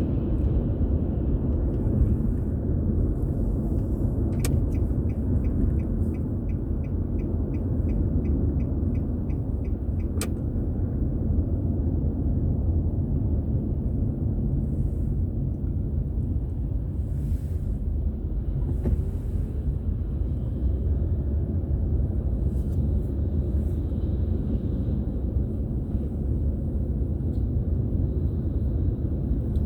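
A car driving, with a steady low rumble of road and engine noise. From about four seconds in, a turn-signal indicator ticks for roughly six seconds, about two and a half ticks a second, with a sharp click as it starts and another as it stops.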